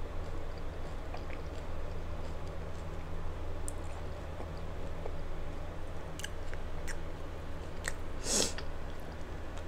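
Close-up chewing of a crunchy cheese-flavoured hard taco shell, with small mouth clicks, over a steady low hum. A louder crunchy bite comes a little over eight seconds in.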